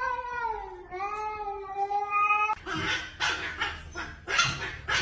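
A dog giving two long, drawn-out whining howls that sag in pitch, then a quick run of about six short, rough yips.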